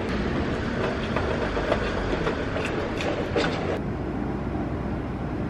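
Steady rain falling on wet pavement, with drops ticking close by. About four seconds in, the sound changes to a softer, steadier rain hiss.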